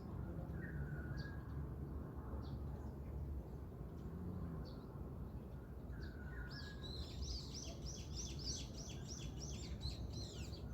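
Small birds singing over a steady low background rumble. A short two-part call comes twice, and brief high chirps are scattered through. From about six seconds in comes a fast run of repeated high notes lasting about four seconds.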